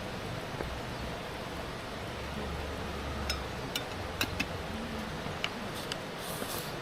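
Steady low background noise with a scattered run of about eight light, sharp clicks and taps in the second half, and a brief hiss near the end.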